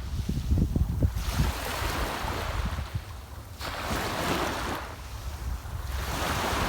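Sea waves breaking and washing on the shore, surging in about three times, with wind rumbling on the microphone.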